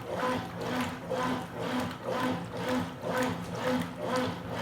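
Consul Supercargo 8 kg top-loading washing machine agitating a load of towels in water during its rinse: the motor hums and the water sloshes with each agitator stroke, about two strokes a second.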